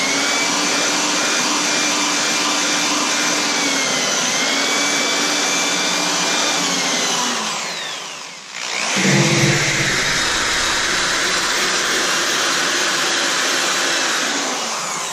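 Electric paint-stripping tool running on a steady motor whine and whir, switched off a little past halfway and started again about a second later.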